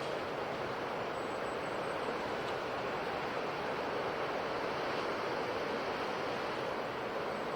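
Sea waves washing on a shore, a steady even rush of surf.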